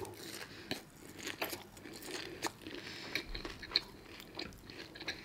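A person chewing a mouthful of crunchy food, with irregular crunches, a few a second.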